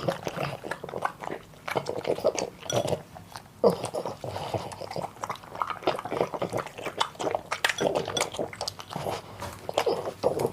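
A puppy eating its food: a quick, irregular run of short chewing and smacking sounds.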